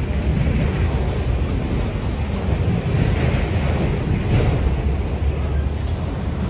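Freight train's autorack cars rolling past: a steady low rumble of wheels on rail, with wind buffeting the microphone.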